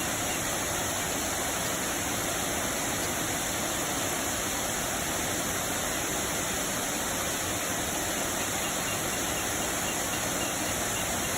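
Waterfall with a low dry-season flow: water falling and splashing in a steady, even rush.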